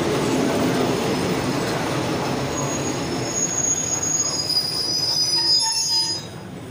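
Passenger train coaches rolling slowly alongside the platform and braking to a stop, with a steady rumble and high, wavering wheel-and-brake squeal over the last few seconds. The rolling noise drops away suddenly about six seconds in as the train halts.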